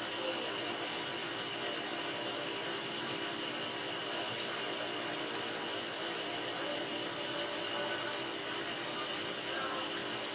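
Steady whir of a running motor, with a constant high whine over it.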